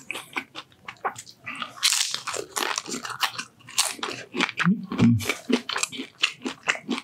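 Close-miked chewing of a tortilla chip topped with melted cheese and ground beef (beef nachos), heard as many quick, irregular crunches.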